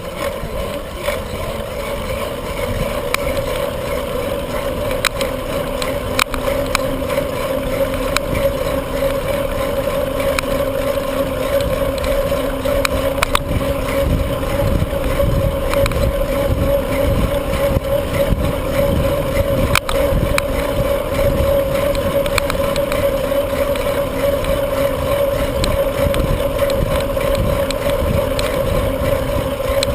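Wind buffeting the microphone of a bicycle-mounted or worn camera while riding, with a steady hum running under it and occasional small knocks from bumps in the road.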